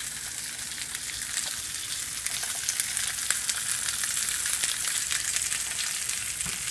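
Ears of corn on the cob frying on a stovetop griddle: a steady sizzle with many small crackles and pops.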